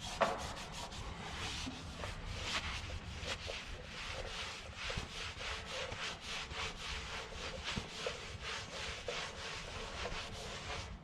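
A cloth rag rubbed by hand over a polished aluminum truck fuel tank, wiping off the polish in quick repeated strokes, about three a second. A single short knock just after the start.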